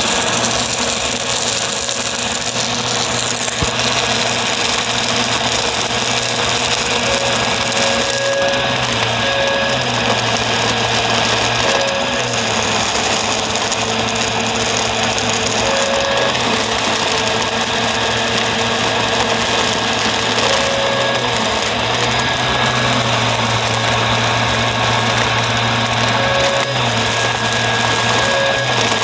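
Upright vacuum cleaner running continuously: a steady motor whine and rushing air, with the motor's pitch dipping and rising slightly every few seconds as the load on it changes.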